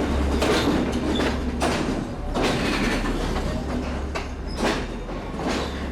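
Passenger train in motion: a steady rumble with repeated knocks from the wheels and carriage at uneven intervals.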